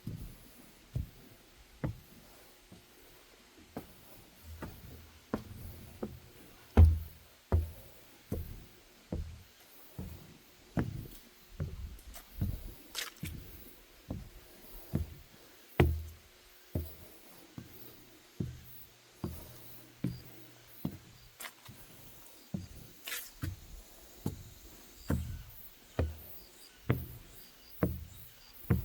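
Footsteps on a wooden boardwalk: steady walking-pace thuds of shoes on the deck planks, about one and a half steps a second, some heavier than others.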